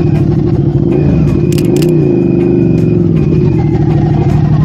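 Yamaha MT-03's parallel-twin engine running, rising briefly in pitch about two seconds in and settling back.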